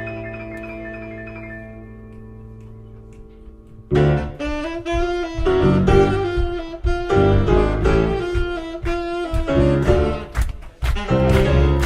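Live band music: a held chord dies away, then about four seconds in the band comes back in loudly with a saxophone lead over bass and drum hits.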